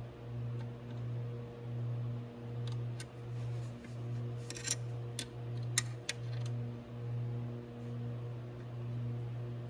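A steady low machine hum that swells and fades a little more than once a second, with a handful of sharp metallic clicks and taps in the middle as small metal parts are handled.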